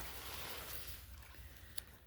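Soft rustling of something being handled close to the microphone, fading after about a second, with one faint click near the end.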